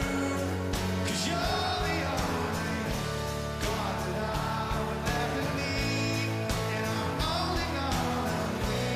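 Live rock band playing a song, with electric guitars, drums and a singing voice.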